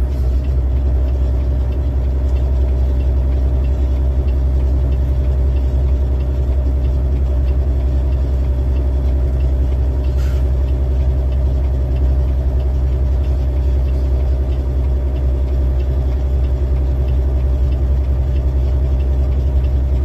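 Semi truck's diesel engine running steadily under load as the truck climbs a mountain grade: a deep, even drone that holds the same pitch throughout.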